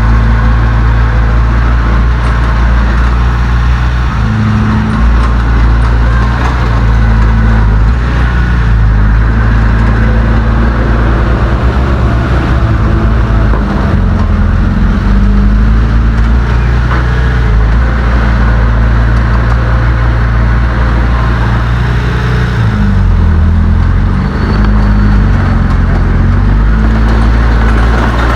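Heavy diesel engine of earthmoving machinery running steadily under load, its pitch dipping and rising a few times as the load changes.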